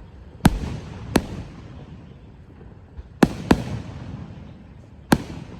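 Fireworks exploding: five sharp bangs, two of them close together a little past halfway, each followed by a low rumble.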